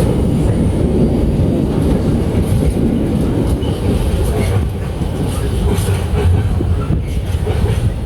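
Train running on the track close by: a loud, steady rumble with the clatter of wheels over the rails.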